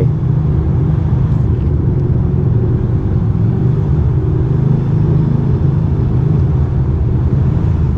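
Ducati Monster 620's air-cooled L-twin engine running steadily under way, a low, even rumble with no revving.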